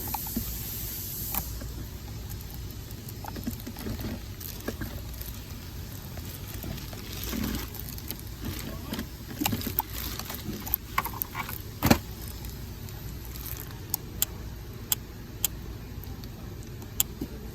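Scattered small metal clicks and taps from working a car ignition key and lock cylinder, over a low steady hum. The clicks come more often in the second half, with one sharp click standing out near the middle.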